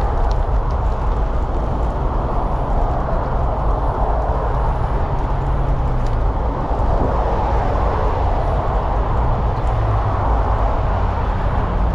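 Steady rush of wind on a GoPro's microphone while riding a bicycle, mixed with road traffic noise.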